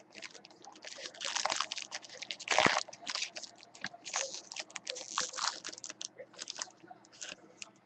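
Irregular crinkling and crackling of card-pack packaging being opened and handled, loudest a little before the middle.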